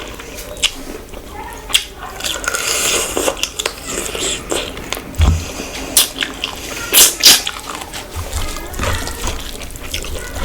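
Close-up wet eating sounds: irregular chewing, lip smacks and squelchy clicks of a mouthful of curry and rice.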